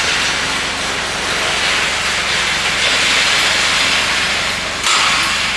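Steady hissing rush of a safari vehicle driving, with a low engine hum underneath and a brief louder surge near the end.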